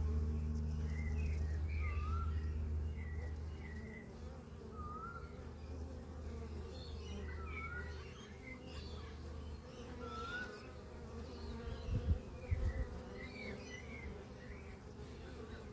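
Beehive humming steadily with the massed buzz of bees, strongest in the first few seconds. Small birds chirp and sing short phrases over it. A few low thumps come about twelve seconds in.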